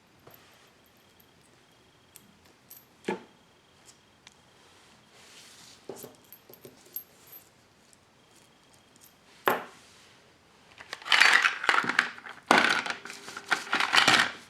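Small hard toys clattering and jangling: a few sharp single knocks, then about ten seconds in two dense bursts of rattling and clinking.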